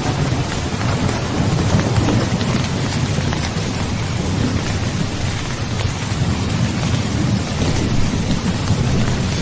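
Heavy rain pouring steadily, with a low rolling rumble of thunder underneath that swells early and again in the second half.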